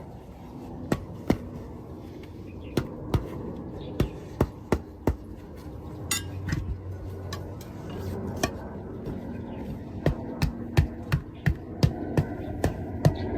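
A hammer striking repeatedly with sharp single blows, spaced irregularly at first, then a quicker run of about three blows a second in the last few seconds, over a low steady background hum.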